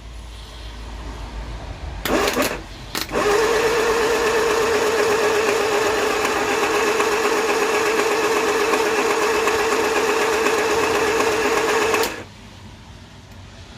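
Classic Mini 1310cc A-series engine turned over on its starter motor to build oil pressure, without firing. Two short bursts of cranking come first, then about nine seconds of steady cranking with a wavering whine, which stops abruptly.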